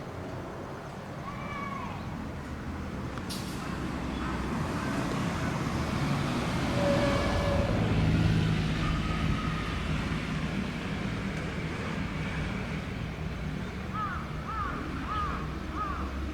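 A train running past: a steady low hum that builds to its loudest about halfway through, then slowly fades.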